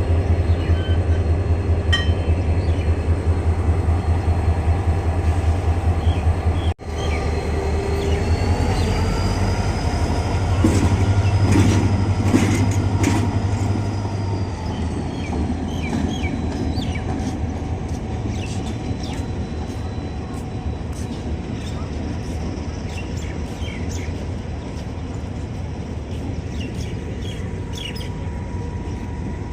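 A diesel-hauled passenger train running along the track, heard from a carriage window: a steady low pulsing of the train with wheel clicks over the rails. It is loudest for the first half and eases somewhat after about 14 seconds.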